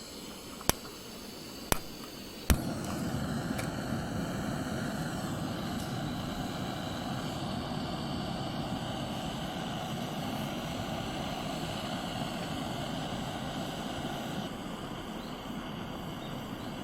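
Three clicks of a piezo igniter, the third lighting a gas burner, which then runs with a steady roar.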